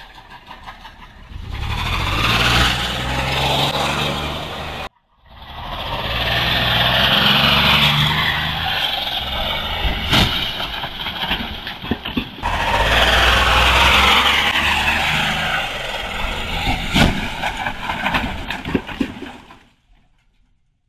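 Vehicle engines running with road and tyre noise, over three short clips that break off abruptly. Sharp knocks come about ten and seventeen seconds in.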